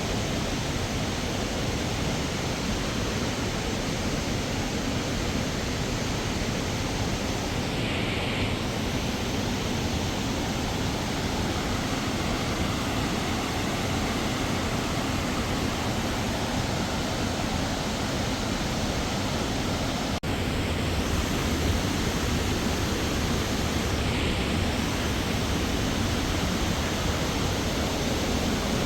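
Waterfall rushing steadily, an even roar of falling water with no pitch to it, slightly louder after a brief break about two-thirds of the way through.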